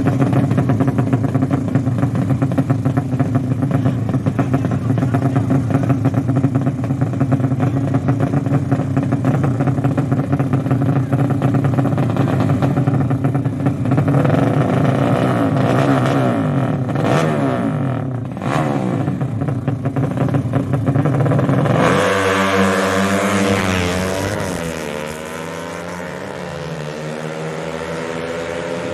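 Racing motorcycle engines running steadily and loudly, then about twenty-two seconds in the sound changes to several engine notes sweeping up and down as bikes rev.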